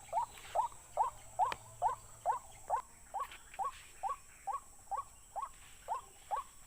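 An animal call: one short, rising note repeated steadily about twice a second.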